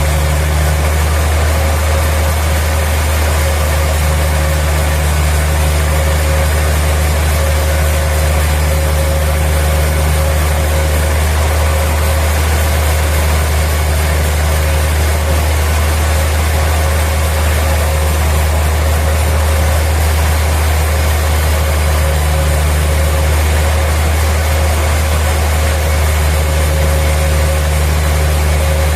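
Sawmill machinery running steadily: a loud, constant low engine-like drone with a few steady tones above it, and no cutting or impacts standing out.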